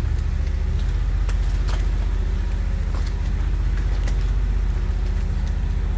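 Truck engine and drivetrain running with a steady low drone as the truck drives slowly along a dirt trail, with scattered short clicks and rattles.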